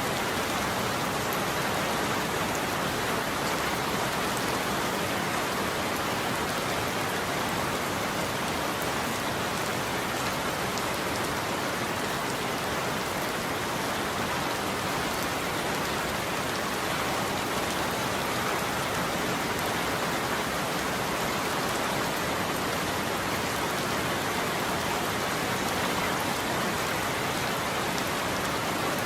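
Steady heavy rain falling on a roof, an even unbroken patter with no thunder.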